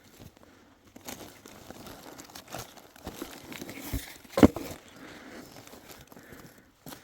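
Irregular crinkling and crunching, with one louder thump about four and a half seconds in.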